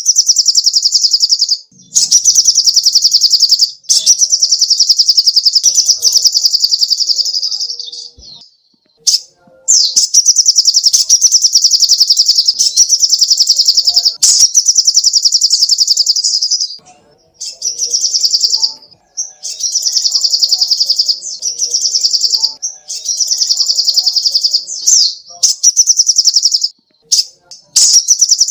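Sogok ontong (spiderhunter) singing: long, very fast, high trills lasting several seconds each, repeated with short breaks.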